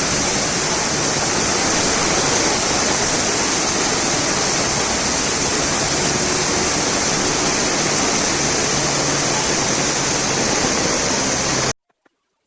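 Loud, steady rush of water, cutting off abruptly about a second before the end.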